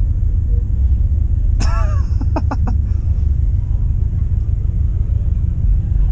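Steady low rumble of a car, with a short voice-like call and a few quick clicks about a second and a half in.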